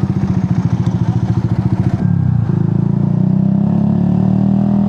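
Motorcycle engine running at low speed with a fast, even pulsing beat. About two seconds in, the note shifts and settles into a smoother, steady hum.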